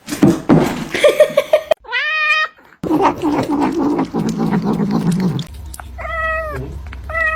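Cats meowing: a clear arching meow about two seconds in, with rougher, noisier cat sounds around it. A steady low hum comes in at about five and a half seconds, with two high, arching meows near the end.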